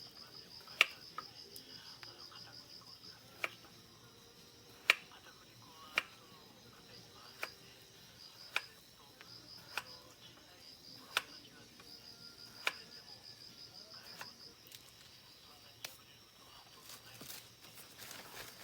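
Insects trilling in a high, pulsing chirr, cut by sharp single taps every second or so, which are the loudest sounds.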